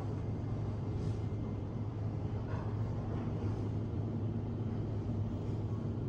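Steady low mechanical hum with a constant background noise, unchanging throughout.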